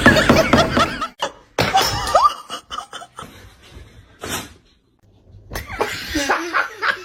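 People laughing in short pieces, broken by sudden cuts, with a near-silent gap about five seconds in.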